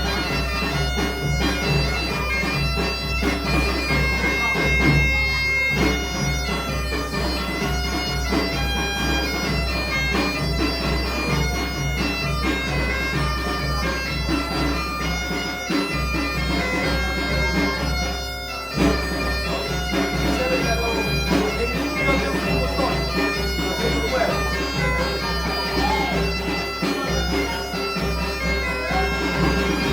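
Galician gaita (bagpipe) playing a tune over its steady drone, with a drum keeping an even beat underneath.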